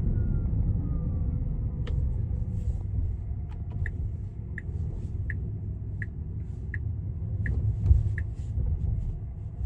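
Low road and tyre rumble inside a Tesla Cybertruck's cabin, with the turn-signal indicator ticking evenly about every 0.7 seconds from about four seconds in during a left turn. One louder thump comes near the end.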